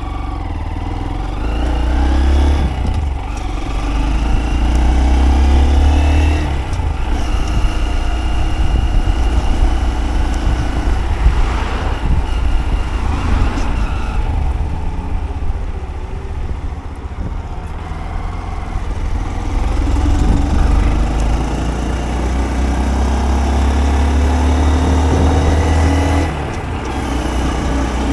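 Honda Monkey 125 motorcycle's single-cylinder engine running under way, its pitch climbing several times and dropping back briefly in between as the throttle is opened and eased off.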